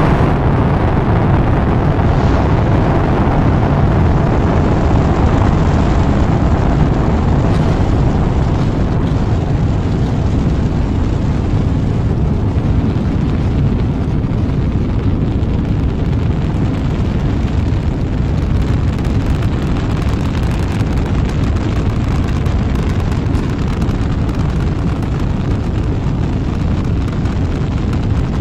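Rocket engine roar: a loud, continuous low rumble of exhaust noise. Its higher hiss slowly thins out while the rumble holds.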